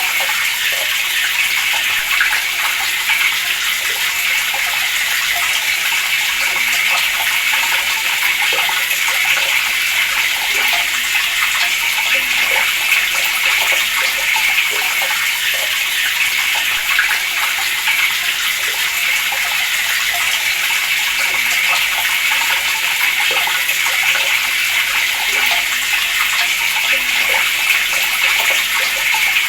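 Water running steadily from a tap, a continuous splashing stream with no break.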